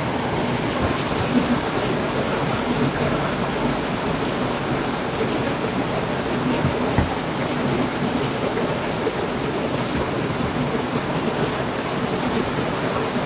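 Heavy rain falling steadily, a dense even hiss, with a couple of brief low thuds, about a second in and again near the middle.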